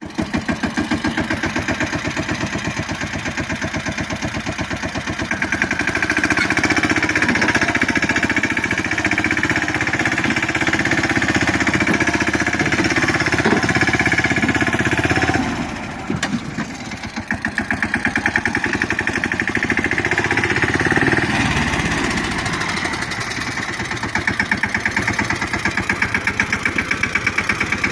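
Tractor's diesel engine running hard with a fast, even firing beat. About halfway through it drops off briefly, then picks up again.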